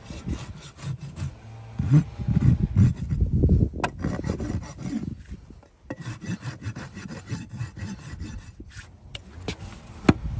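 Rapid, irregular rasping and scraping strokes, as of a hand tool worked over a surface, with a short lull a little before halfway and a sharp click near the end.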